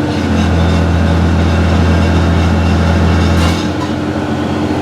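John Deere 6068 six-cylinder diesel engine of a harvester running steadily while it warms up to test a newly fitted 189-degree thermostat against overheating. A deep low hum in the engine note drops away about three and a half seconds in.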